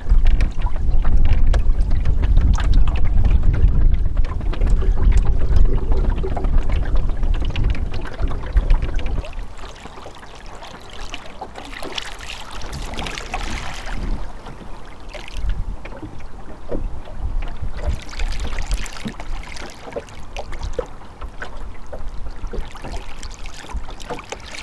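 Wind buffeting the microphone while water rushes and splashes along the hull of a small sailing dinghy under way. The deep wind rumble is heavy for roughly the first nine seconds, then eases, leaving the water sounds with a couple of louder rushes.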